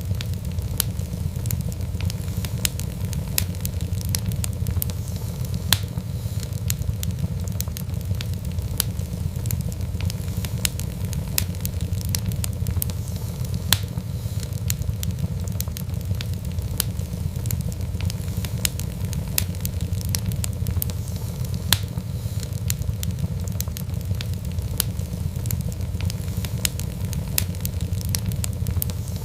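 Wood fire in a fireplace crackling steadily, with dense small snaps over a low rumble of flame and now and then a sharper, louder pop.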